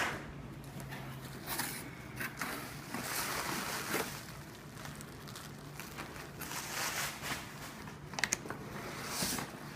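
Packaging rustling and crinkling in irregular swishes, with a few sharp clicks, as presents are pulled out of a box and unwrapped.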